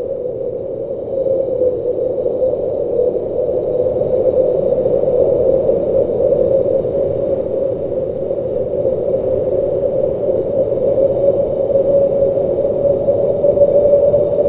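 Blizzard wind blowing steadily, a low rushing noise that swells a little about a second in and keeps surging gently.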